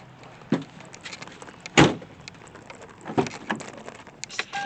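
Scattered clicks and knocks of objects being handled, with one sharp, louder knock about two seconds in. A short steady electronic beep starts near the end.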